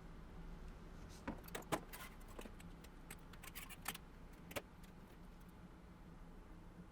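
Light metallic clicks and clinks, a dozen or so in a few seconds, the loudest about two seconds in, over a faint steady hum.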